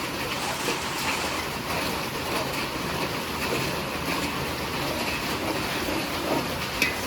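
Heavy monsoon rain pouring down steadily, an even hiss with no break.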